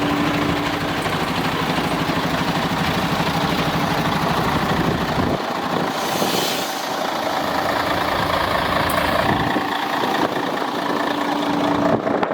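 Diesel engine of a 2001 Mercedes Actros 3235 concrete mixer truck, a V6, idling steadily, with a brief hiss about six seconds in.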